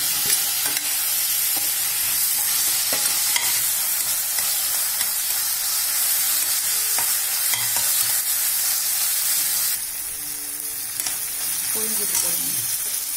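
Onions and freshly added tomatoes sizzling in hot oil in a stainless-steel pressure cooker, with a spoon stirring and scraping against the pot in scattered clicks. The sizzle eases a little about ten seconds in.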